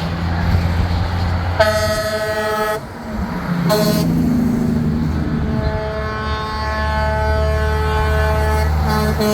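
Semi-truck air horns blowing: a long blast starting between one and two seconds in, a short blast about a second later, then another long horn from about five seconds in to near the end, over the low running of big-rig diesel engines.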